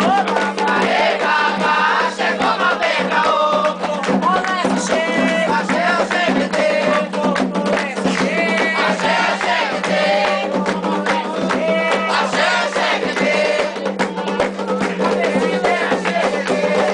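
Group of voices singing Candomblé ritual songs for Xangô, with steady percussion and a shaken rattle beneath.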